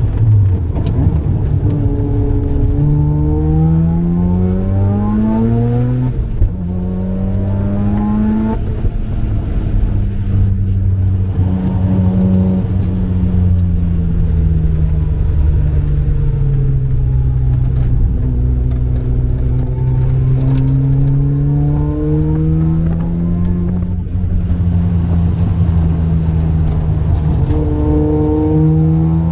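Mazda RX-7's 13B rotary engine under hard acceleration: the revs climb, drop sharply at an upshift about six seconds in, climb again, then ease off and build slowly through a long pull. A faint high whistle rises with the revs in the first two climbs.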